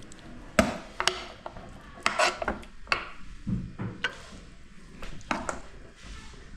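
Kitchen utensils knocking and scraping against pots and dishes, in about eight irregular clatters.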